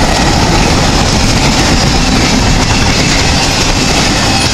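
Norfolk Southern double-stack intermodal freight train's loaded well cars rolling past close by, their steel wheels running over the rails in a loud, steady rumble.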